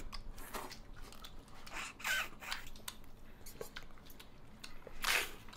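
Close-up eating noises: chewing and smacking on braised meat off the bone, with clicks and short sucking rushes as marrow is slurped through a plastic straw from a large bone, the loudest slurp near the end.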